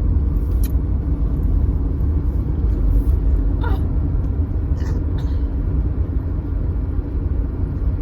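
Car cabin road noise while driving: a steady low rumble of engine and tyres, with a few brief faint higher sounds near the middle.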